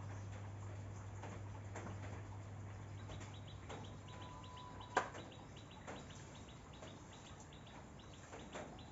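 Birds chirping faintly outdoors, with a run of quick high ticks from about three seconds in over a steady low hum. A single sharp click about five seconds in is the loudest sound.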